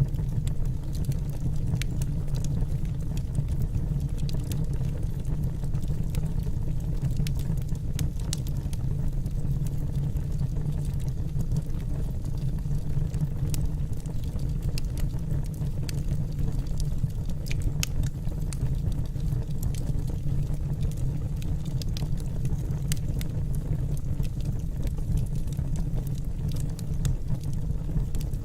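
Wood burning in a fireplace: a steady low rumble from the fire with scattered sharp crackles and pops of the burning logs.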